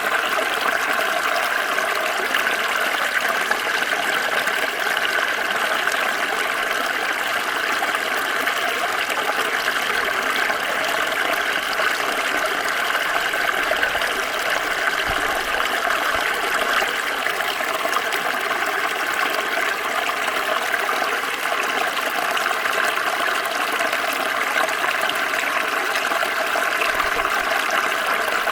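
Water flowing steadily over rocks in a small stream, a constant splashing rush.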